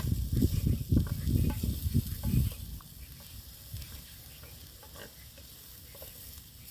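Minced meat, onions and vegetables frying and sizzling in a pan while being stirred, with a spoon scraping and knocking against the pan for the first couple of seconds, then a quieter steady sizzle with a few small clicks.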